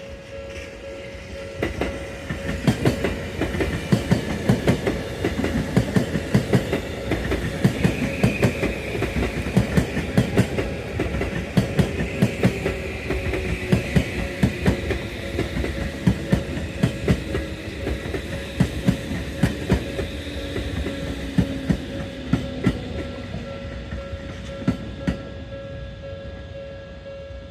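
A train passing close by, its wheels knocking over rail joints in a fast, uneven clatter that fades away near the end. A faint whine falls slowly in pitch through the middle of the pass.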